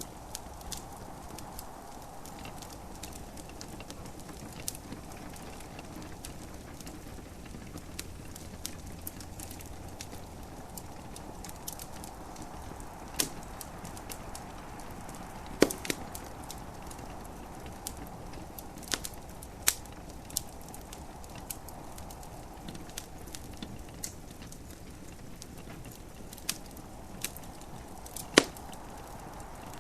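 Wood fire in a fireplace crackling, with irregular sharp pops over a steady soft hiss; two pops about halfway through and one near the end stand out loudest.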